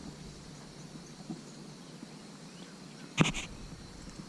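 Quiet outdoor ambience with a faint, steady high insect hiss. A single sharp knock about three seconds in is the loudest sound.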